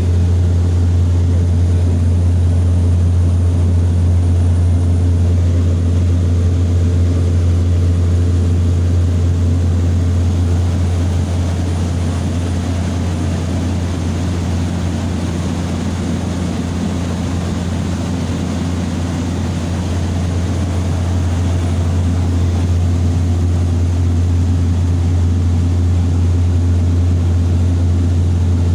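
Steady low drone of a small propeller airliner heard from inside the cabin in cruise flight. It eases off slightly in the middle and then comes back up.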